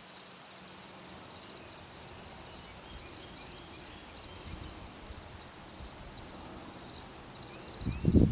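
Insects chirping in a steady, evenly pulsing high-pitched chorus, with a short, loud low thump near the end.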